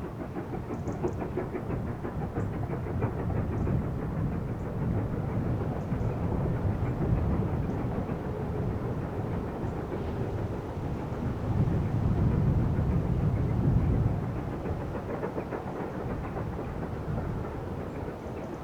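Steam train passing under power, its exhaust beats and wheel rumble swelling to their loudest about twelve seconds in, then fading as it draws away.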